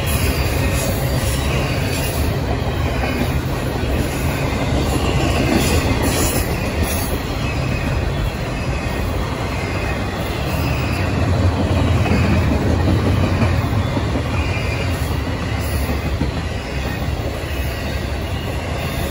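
Double-stack intermodal freight cars rolling past at speed: a steady rumble of steel wheels on rail, with faint wheel squeal coming and going.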